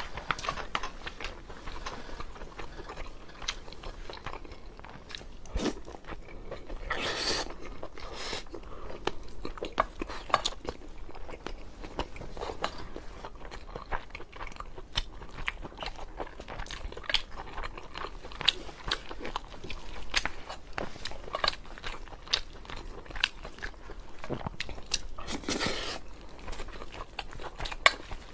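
Close-miked eating of braised pork over rice: chewing and biting with many small clicks and smacks, and two longer noisy stretches, one about seven seconds in and one near the end.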